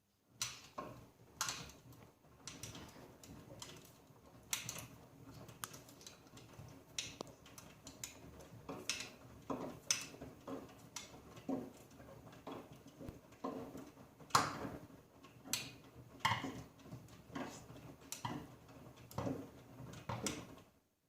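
AEG Öko-Lavamat 88840 front-loading washing machine in its wash phase: laundry tumbling in the drum, with irregular splashy knocks and clicks about once a second over a low motor hum.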